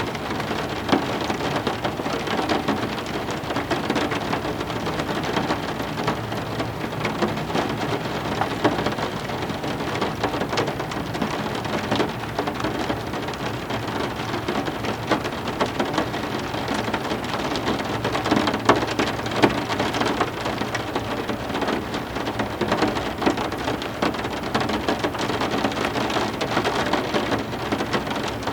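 Heavy rain falling steadily, a dense hiss with many individual drops ticking.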